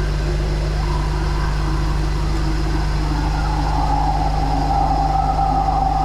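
Drain jetter's engine and pump running steadily while the high-pressure hose jets water down the drain toward the gully. A steady higher whine comes in and grows about halfway through.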